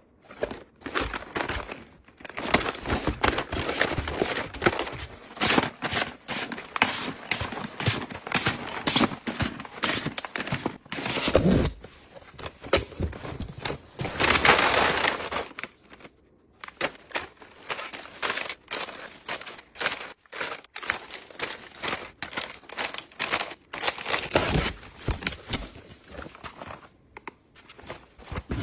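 Packaging being crinkled and handled close up: a dense, irregular run of crackles and rustles, swelling loudest about halfway through, with a brief pause just after.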